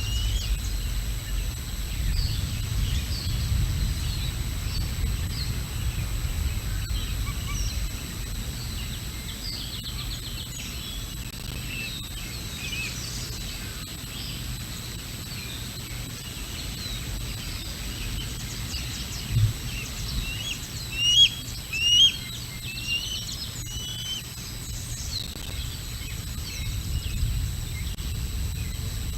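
Small birds chirping and calling in short, scattered notes, with a few louder chirps about three-quarters of the way through. A low rumble of wind on the microphone comes and goes underneath.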